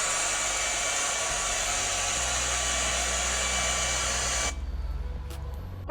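Hair dryer blowing steadily, an even rush of air with a faint motor whine, that cuts off about four and a half seconds in.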